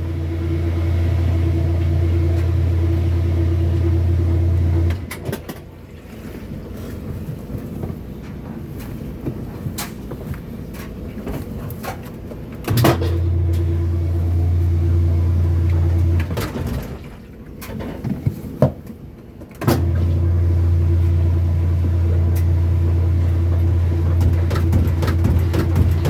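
Kenmore washing machine motor humming in three spells of several seconds: a steady low hum that holds one pitch without running up, coming on at the start, again about 13 seconds in and again about 20 seconds in, with clicks between. It is straining against a heavy load that the owner says it will not manage.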